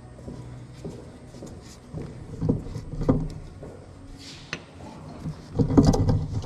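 Intermittent knocks and clatter of hands working on combine parts, loudest about two and a half, three, and six seconds in.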